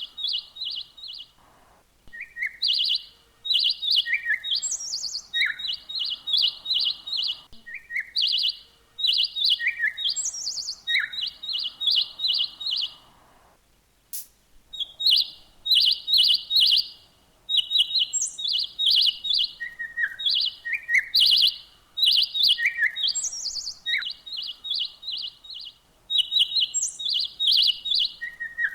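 A songbird singing: phrases of quick, high chirps repeated again and again, with a couple of brief pauses.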